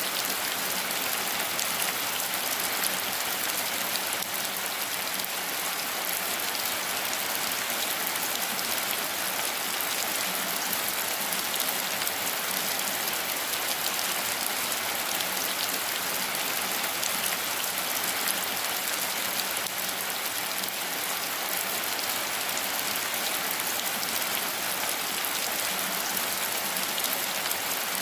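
Steady rain falling, a dense even patter of raindrops hissing on leaves and ground without let-up.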